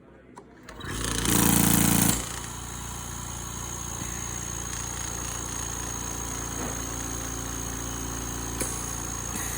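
Aerous NX oxygen concentrator fitted with a retrofit silencing kit (muffler) starting up about a second in. It is louder for the first second, then settles into a steady running hum with a faint high whine.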